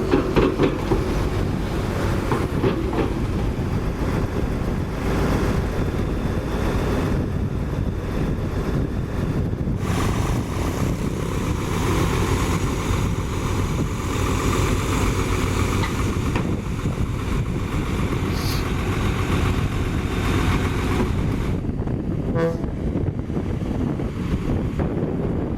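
Heavy diesel machinery running steadily, a tow truck or tandem roller engine, with some wind on the microphone.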